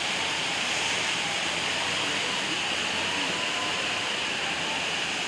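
Steady rush of falling water, like a forest waterfall or cascade, holding an even level throughout.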